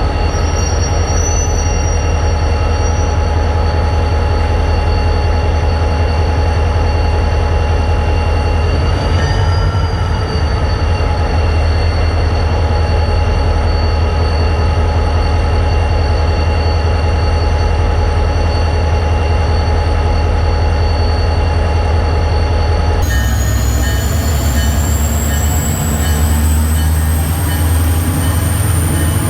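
EMD diesel switching locomotives running, a heavy steady rumble with several high steady whines over it. About two-thirds of the way through the sound changes abruptly and a high whine climbs steadily in pitch to the end.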